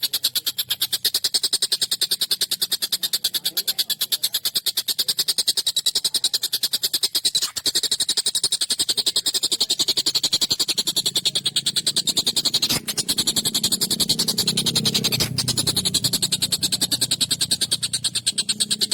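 Tengkek buto kingfisher calling in a fast, harsh, unbroken rattle of rapid notes, steady in pace and loudness.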